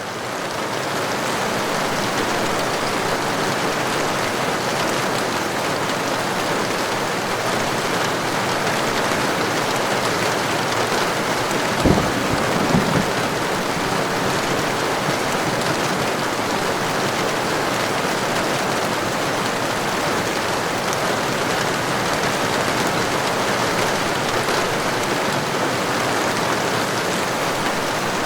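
Heavy, steady rain that fades in at the start. About twelve seconds in, a short, low clap of thunder sounds twice in quick succession.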